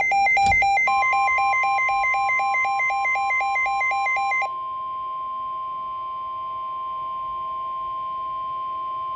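Weather alert radio sounding a severe thunderstorm warning: rapid alarm beeps at two alternating pitches, about four a second, stop about four and a half seconds in. Under the beeps, the steady 1050 Hz NOAA Weather Radio warning alarm tone starts about a second in and holds on.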